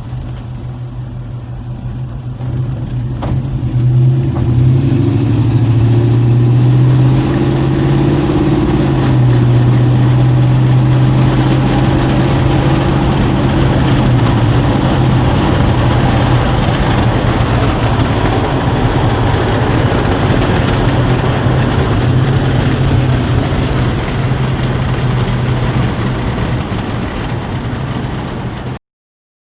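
The 1958 Chevrolet Cameo restomod's 6.2-litre Vortec V8 running steadily as the truck is driven, with a broad rushing noise over a low engine note. It gets louder about four seconds in and cuts off suddenly near the end.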